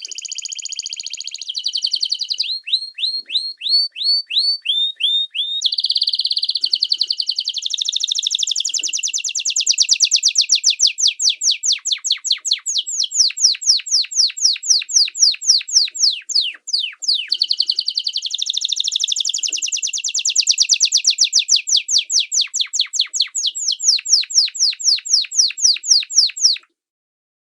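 A songbird singing a long, fast song of rapid repeated high-pitched notes and trills, switching to a new phrase every few seconds. The song cuts off abruptly shortly before the end.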